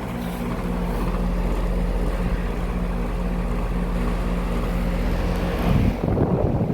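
Daikin DX16SA 4-ton central air conditioner's outdoor unit running just after startup: a steady hum from its Copeland scroll compressor with the fan's air rush, building a little over the first second. Near the end the hum gives way to a gusty rush of air buffeting the microphone.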